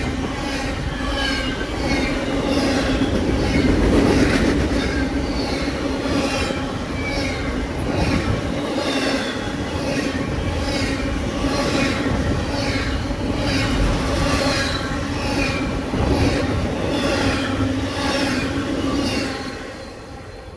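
A train rolling past on steel rails: a steady, even clatter of wheels over rail joints at about two beats a second, with a steady whine from the wheels. It drops away near the end as the train clears.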